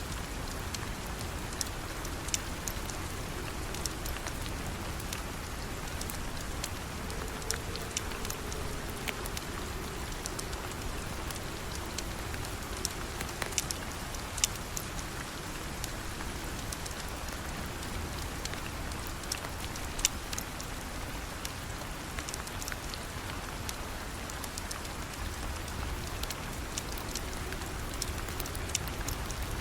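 Steady rain falling, an even hiss with a low rumble underneath and scattered sharp clicks throughout.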